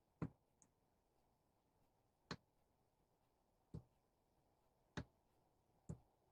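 Five sharp clicks at uneven intervals over near silence: light switches on the boat's panel being flipped.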